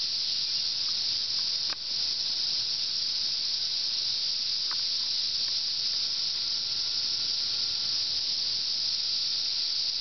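A dense chorus of cicadas: a loud, steady, high-pitched hiss with no breaks, the roar of a mass emergence in the trees. A short click sounds once, about two seconds in.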